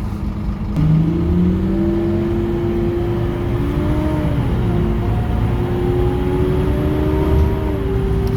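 Scania K230UB bus's diesel engine accelerating. It surges about a second in, then its pitch climbs and drops back twice as the automatic gearbox changes up, over a steady low rumble.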